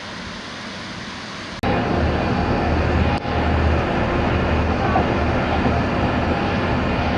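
A quiet rush of wind or water noise, then an abrupt change about one and a half seconds in to a loud, steady engine drone with a deep low hum.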